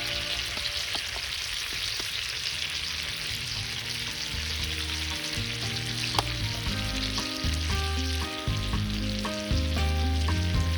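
Food frying with a steady sizzle, under background music whose bass notes come in about four seconds in. A single sharp click about six seconds in.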